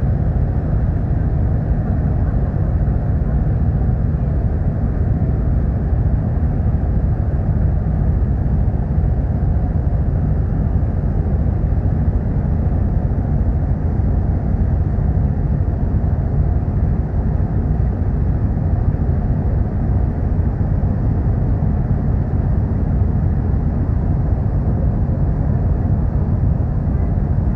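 Steady low rumble of the car ferry Kuniga under way, with an even rushing noise over it and no change throughout.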